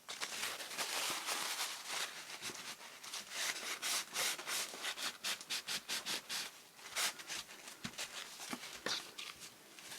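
Hands rubbing and smoothing paper, pressing a freshly glued paper pocket down onto a journal page: a run of repeated dry rubbing strokes.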